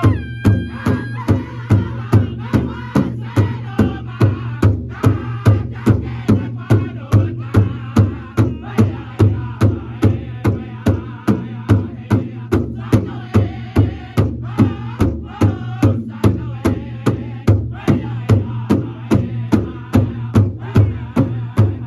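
Powwow drum group singing around a big drum: a steady, even drumbeat about two strokes a second under several voices singing together.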